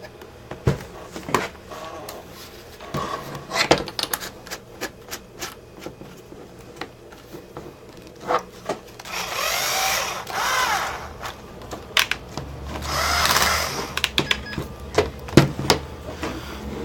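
Battery-powered hand drill run in two short bursts, its motor whine rising and falling in pitch, with scattered clicks and knocks of handling the drill and bit before it.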